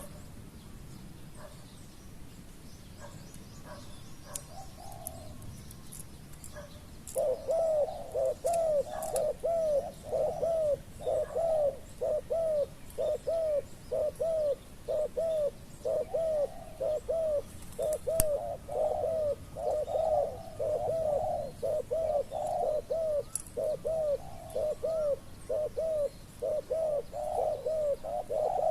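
Spotted dove cooing: after a couple of faint coos, from about seven seconds in a long rapid run of low arched cooing notes, about three a second, that keeps going to the end.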